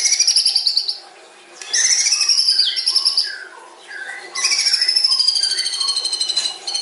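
White-rumped shama (murai batu) singing three phrases of fast, rattling trills, high-pitched and slowly falling, with short pauses between them.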